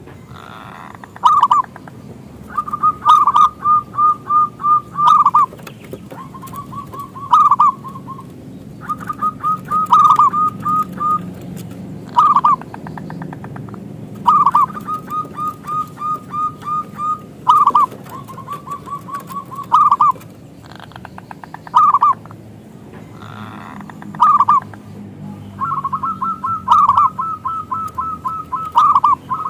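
Zebra dove (perkutut) cooing: repeated phrases of quick staccato coos, each run lasting a second or two, with single louder notes between runs. A faint low background noise sits underneath.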